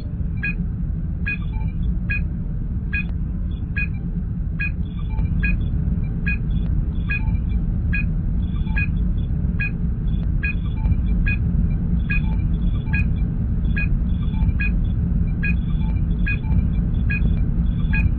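Star Trek starship bridge ambience sound effect: a steady low engine rumble with short, high computer beeps repeating about once a second.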